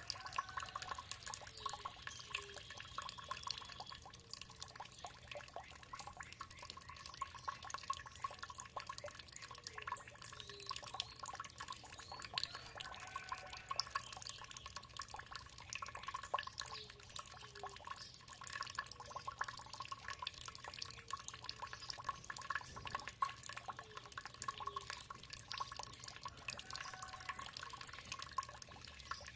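Water trickling and dripping with a steady spatter, while birds call now and then with short chirps in the background.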